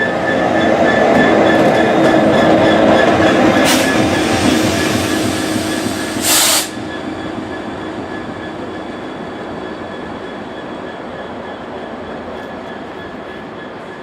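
Train running past, building to its loudest a couple of seconds in and then fading away as it recedes. There is a brief loud burst about six seconds in, with a fainter one shortly before.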